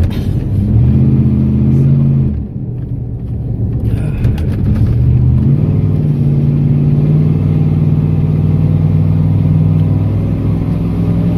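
Old truck's engine pulling hard at full throttle, heard from inside the cab: it climbs in pitch, drops back suddenly about two and a half seconds in, then climbs again and holds high. The truck is underpowered, so it is being driven flat out.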